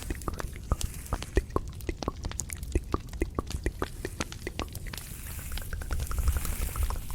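Close-miked ASMR trigger sounds: a dense, irregular run of sharp clicks and taps, several a second.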